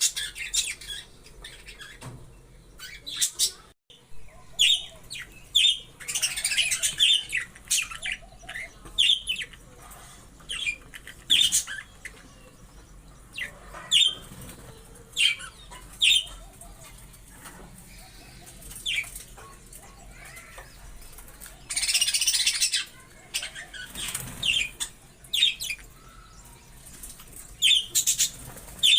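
Budgerigars giving short, repeated chirps, with two longer bursts of wing flapping, one a few seconds in and one about three-quarters of the way through.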